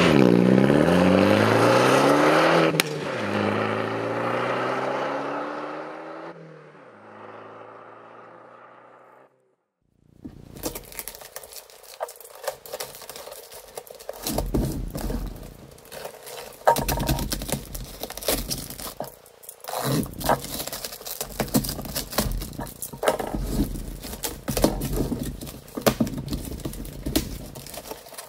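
Alfa Romeo MiTo engine revving, its pitch sweeping, then fading out over several seconds. After a short silence about ten seconds in, a taped cardboard parcel is opened: packing tape pulled and cut and cardboard flaps scraping and crinkling, with irregular clicks and knocks.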